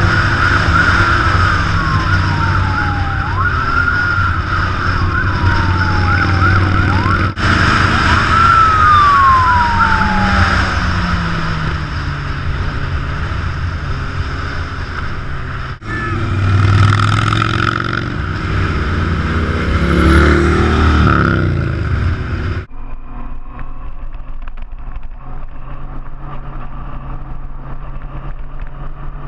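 A siren sounding in repeated falling sweeps, each dropping in pitch over two to three seconds before jumping back up, over the low rumble of big motorcycle engines. About three quarters of the way through, the sound cuts off suddenly to quieter, duller engine noise.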